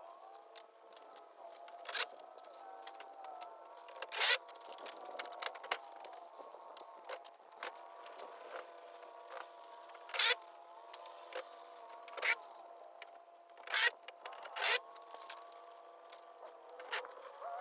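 Sped-up, high-pitched work sounds of gutter installation: irregular sharp clicks and knocks, half a dozen of them loud, over a faint hum with sliding tones.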